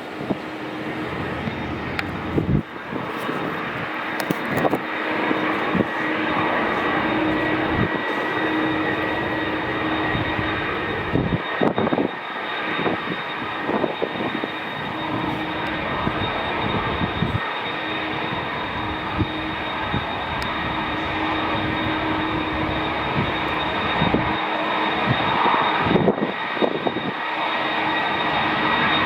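Airbus A330's two GE CF6-80E1 turbofan engines running steadily: a continuous jet rush with steady whining tones, swelling slightly towards the end.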